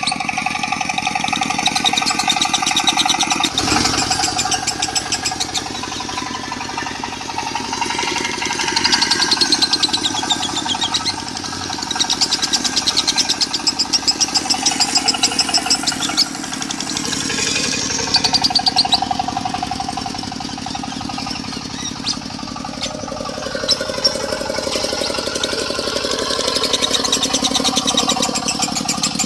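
Lovebird singing in long, fast, unbroken chattering runs, the konslet style of lovebird song, mixed over a diesel engine idling with a steady rapid knock.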